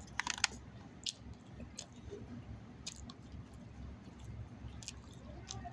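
A person chewing food with the mouth close to the microphone, with a quick run of wet mouth clicks near the start and single clicks about once a second after.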